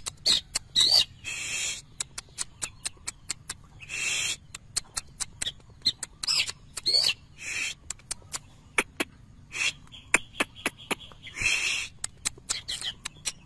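Long-tailed shrike singing vigorously: rapid dry clicks mixed with harsh rasping bursts and short whistled notes.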